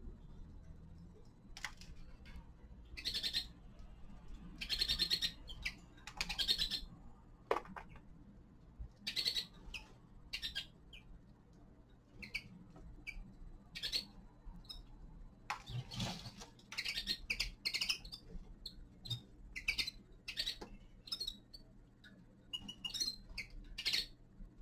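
Several small caged finches chirping and calling: short scattered chirps throughout, a few drawn out into quick trills, over a faint low steady hum.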